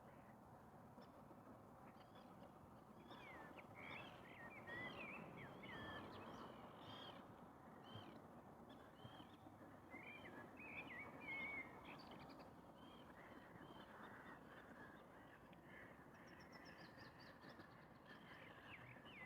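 Faint distant birdsong: many short chirps and whistled notes, with a quick run of falling notes near the end, over a soft steady hush.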